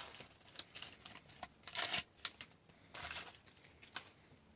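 Paper sticker packs and stickers being handled: short, scattered rustles, slides and light clicks of paper and card.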